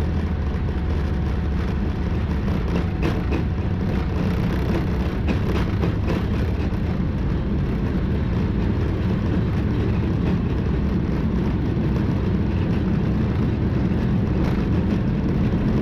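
Boeing 777-300ER takeoff roll heard from the flight deck: its GE90 engines run steadily at takeoff thrust over the deep rumble of the wheels on the runway. The noise grows slightly louder as the aircraft accelerates toward rotation.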